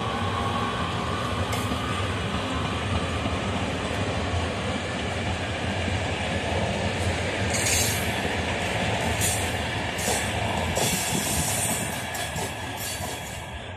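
Passenger train running along the track and moving away: a steady rumble, with wheels clicking over the rail joints from about halfway through, fading near the end.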